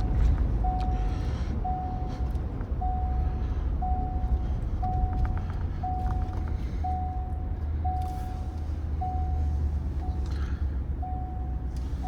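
Low, steady running rumble of a pickup truck, with a short electronic warning chime repeating about once a second over it.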